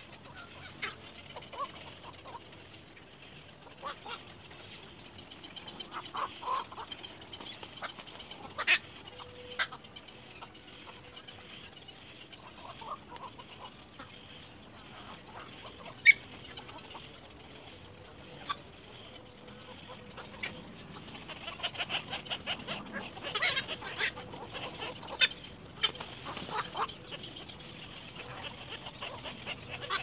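Birds clucking and calling in short scattered notes with a few sharp clicks, becoming a busier run of rapid chattering calls in the second half.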